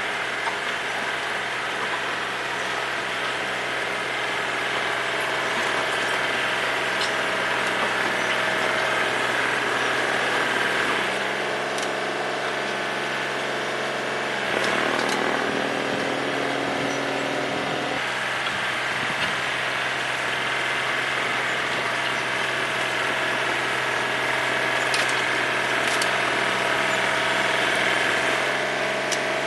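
Snowblower engine running steadily while clearing snow, its note shifting for several seconds around the middle as the load changes.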